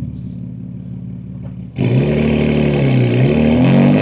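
BMW M2 G87's S58 twin-turbo inline-six with catless downpipes running quietly at light throttle, then about two seconds in the throttle opens and the exhaust turns suddenly loud. The engine note climbs and then falls back near the end.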